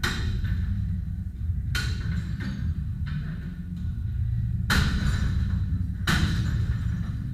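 Heavy blows smashing objects, about half a dozen hard strikes at irregular intervals of a second or so, each with a short ringing, crashing tail.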